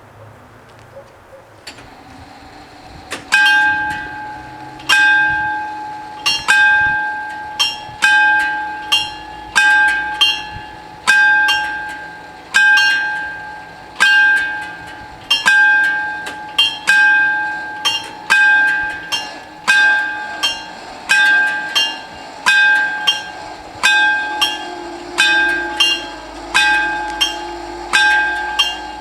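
The two electric warning bells of an Italian FS 64 level crossing starting to ring about three seconds in, then striking steadily, about one clear ringing strike every three-quarters of a second. They are signalling that a train is approaching and the barriers are coming down.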